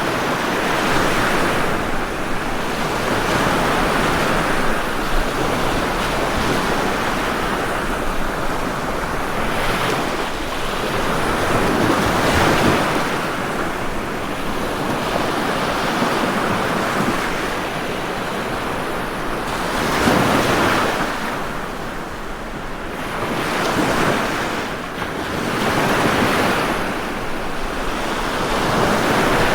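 Ocean waves breaking and washing on the shore in a continuous surf, swelling and easing every few seconds.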